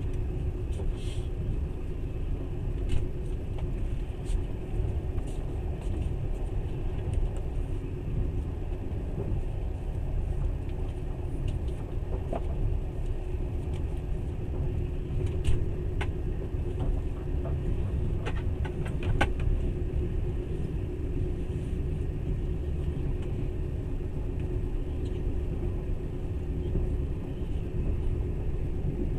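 Passenger train in motion, heard from inside the carriage: a steady low rumble of wheels on the track with a faint steady hum, and scattered clicks and rattles, a cluster of them a little past the middle.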